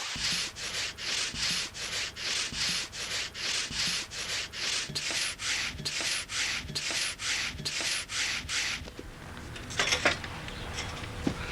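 Large hand crosscut saw cutting through a thick tree trunk, steady back-and-forth strokes at about two and a half a second. The sawing stops near the end, followed by a couple of short knocks.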